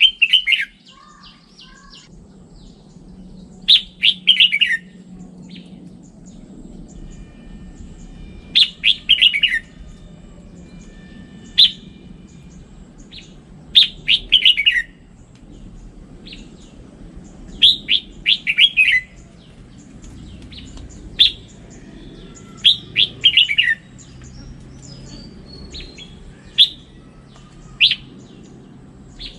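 Red-whiskered bulbul singing: short, quick phrases of bright notes, repeated every two to four seconds over a faint low hum.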